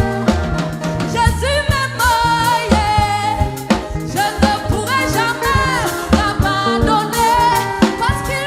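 Gospel praise song: a singer and choir with a live band, bass and drum kit keeping a steady beat.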